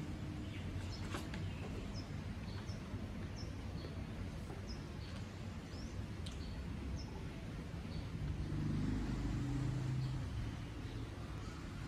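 Outdoor ambience: a small bird giving a string of short, high chirps, about two a second, over a steady low rumble of distant traffic. A vehicle's engine hum swells louder about nine seconds in, then fades.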